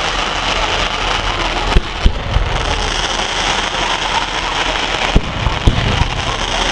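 Fireworks display: a dense, steady crackling like heavy rain, broken by sharp bangs, two close together about two seconds in and two more after five seconds.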